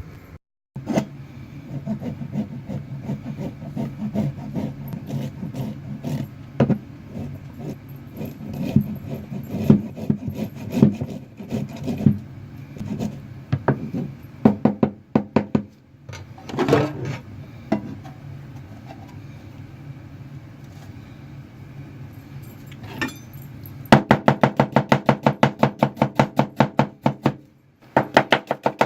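Knife work on a cutting board: scattered taps and scraping, then rapid, even chopping at about eight strokes a second starting about 24 seconds in. A steady low hum runs underneath.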